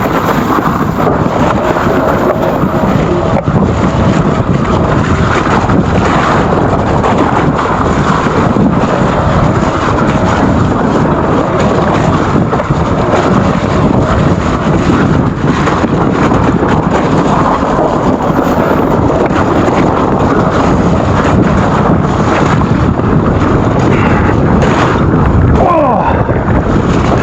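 Loud, steady wind noise buffeting the microphone of a camera on a rider on an electric mountain bike, with a brief squeal near the end.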